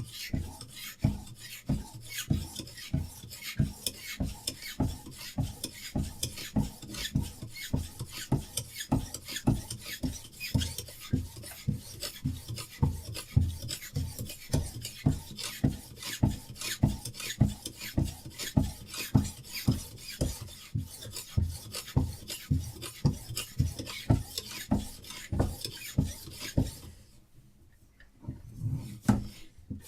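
Sharpening stone on a Hapstone RS guided knife sharpener scraping back and forth along a knife blade's edge in steady, even strokes, about two to three a second. The strokes pause for a moment near the end, then start again.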